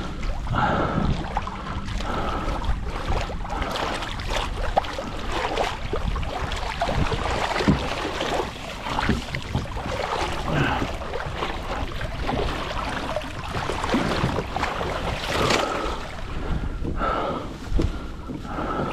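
Wind buffeting the microphone and water washing against a plastic kayak hull, with frequent small knocks and clatter from handling on board.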